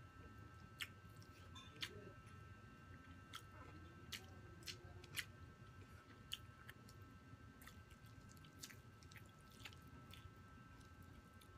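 Quiet chewing of roast chicken and rice, with scattered sharp wet mouth clicks and smacks, most of them in the first half.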